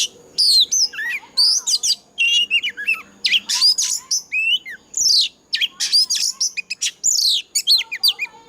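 Oriental magpie-robin singing a fast, varied song of loud whistled notes, sweeping slurs and sharp chirps, with hardly a pause.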